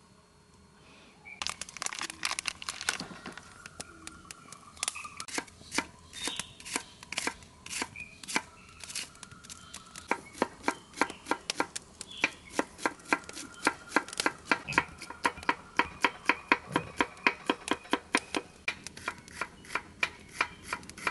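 Knife chopping on a cutting board: irregular cuts at first, then from about halfway a fast, even run of about three strokes a second.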